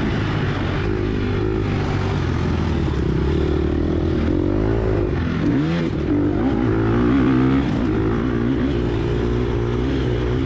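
Gas Gas EX250F dirt bike's 250 cc single-cylinder four-stroke engine under race load, revving up and down with throttle and gear changes. About five to six seconds in the revs drop sharply and climb again.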